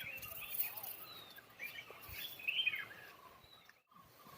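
Birds chirping and calling in forest, a series of short rising and falling chirps over a faint background hiss; the sound cuts out briefly near the end.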